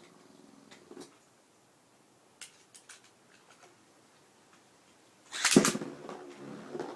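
A few light plastic-and-metal clicks, then, about five seconds in, a sudden loud rattle as Beyblade spinning tops are launched, followed by their whirring hum and clicks as they spin and knock together in the stadium.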